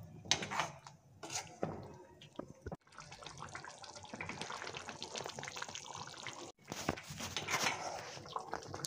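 A metal spoon scraping and stirring chicken and masala in a karahi, then, after a cut about three seconds in, the thick masala bubbling and sizzling hard on high flame, then stirring resumes near the end. This is the bhuna stage: the onion-tomato paste being fried into the masala.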